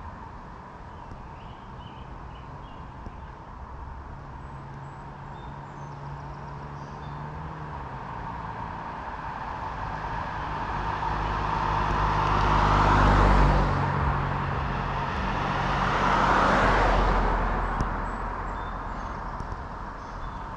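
Cars driving past on the road, one after another: tyre and engine noise swells to a peak and fades twice, with the engine note dropping in pitch as the first goes by.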